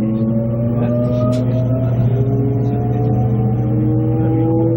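Train accelerating: a steady low hum with several tones rising slowly and evenly in pitch.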